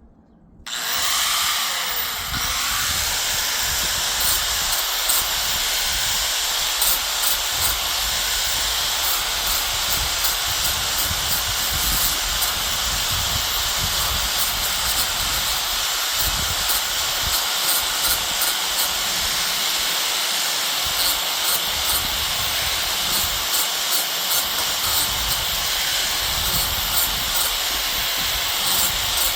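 Electric arc welding: a steady crackling hiss that starts abruptly about a second in and holds without a break.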